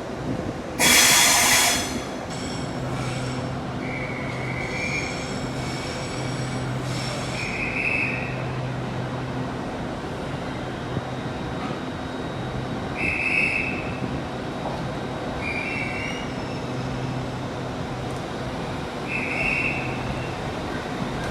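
Train wheels squealing in short high screeches every few seconds over a steady low hum, with a loud hiss about a second in.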